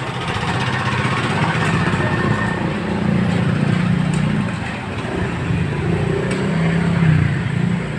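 A small engine running steadily, its pitch drifting slightly up and down.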